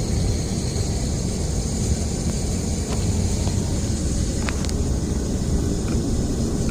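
2004 Ford F-150 on the move: a steady low rumble of road and drivetrain noise with a high, static-like hiss over it. The hiss comes from the rear of the truck, only while it is moving, and its cause is unknown to the owner.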